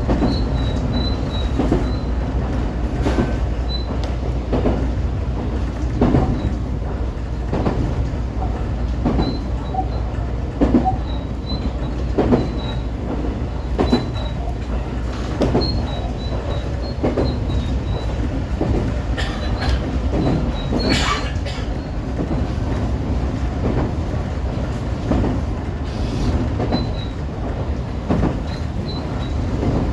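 125 series electric railcar running along the line: a steady rumble with irregular clicks of the wheels over rail joints and brief, high-pitched squeals from the wheels scattered throughout.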